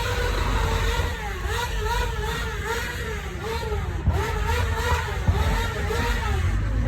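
A car engine being revved over and over, its pitch rising and falling in quick repeated blips, over a steady low exhaust rumble.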